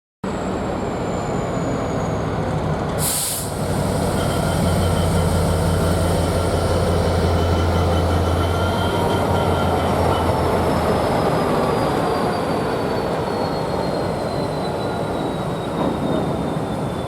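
A diesel freight train passing, most likely hauled by a Class 66 locomotive with a two-stroke V12 engine. The engine's steady low drone fades out about ten seconds in, leaving the rumble of the wagons on the rails. Faint high wheel squeal slowly falls in pitch throughout, and there is a short sharp hiss about three seconds in.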